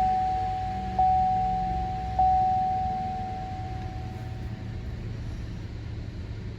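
GMC Canyon's warning chime sounding a repeated single-pitch ding about every 1.2 seconds. The last ding rings out and fades about halfway through, and a low steady background hum stays under it.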